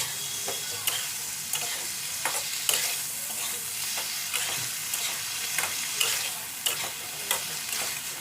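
Chicken sizzling in hot oil in a pan while it is stirred, with irregular scrapes and knocks of the stirring utensil against the pan over a steady frying hiss.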